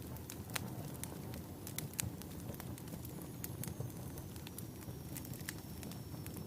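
Wood fire burning in a fireplace: a steady low rumble of flame with frequent, irregular sharp crackles and pops from the logs, and a faint high thin whistle in the second half.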